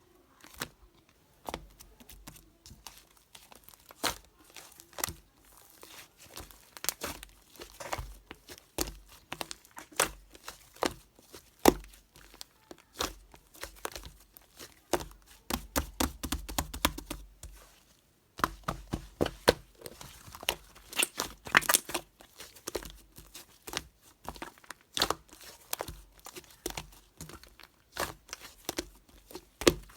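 Modelling clay being squeezed, pressed and pulled apart by hand, giving irregular crackling, tearing and clicking sounds.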